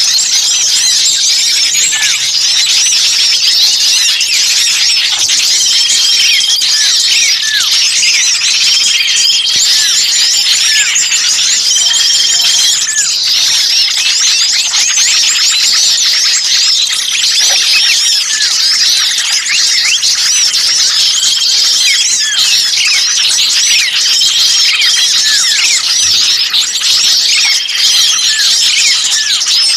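A dense, noisy chorus of many small songbirds chattering and chirping excitedly without pause, with a short flat whistle coming back every few seconds. It is an agitated-bird lure recording used to draw wild birds in for trapping.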